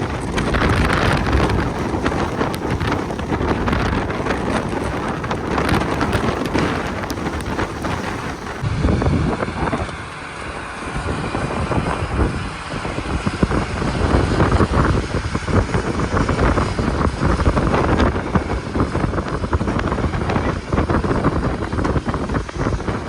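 Strong wind buffeting the microphone: a loud, rushing noise that rises and falls in gusts and changes character about nine seconds in.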